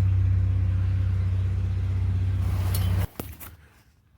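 Chevy S10 pickup truck driving, a steady low rumble that cuts off abruptly about three seconds in, followed by near quiet with a few faint clicks.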